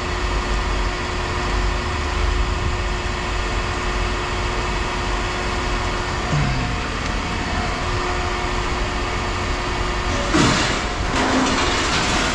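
Steady low mechanical rumble with a held hum, broken about ten seconds in by a short loud burst of clattering noise.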